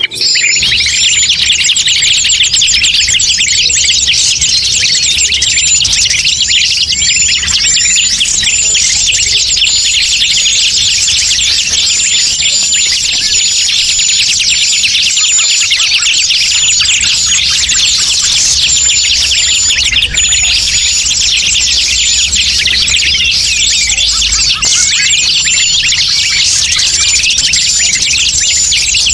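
Dense, continuous chorus of many small birds chirping and twittering, with a short high note repeating over it: a bird-lure recording (suara pikat) played to draw forest birds in.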